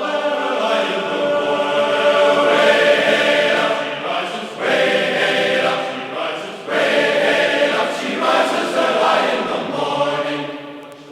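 Choral singing: voices holding long chords in phrases, with short breaks between phrases, fading near the end.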